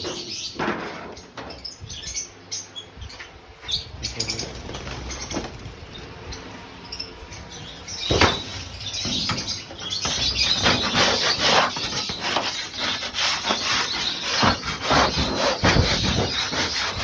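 Scraping dirt off an aviary floor tray. The strokes are sparse at first, with one hard stroke about eight seconds in, then come quick and close together for the rest.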